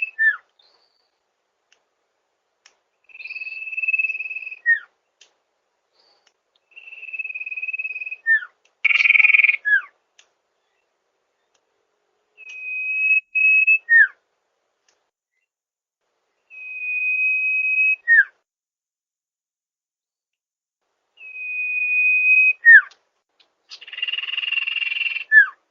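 Sirtu bird calling over and over: each call is a long, steady, high whistle followed by a short falling note, repeated about every four and a half seconds. Twice the whistle is replaced by a harsher, buzzier note.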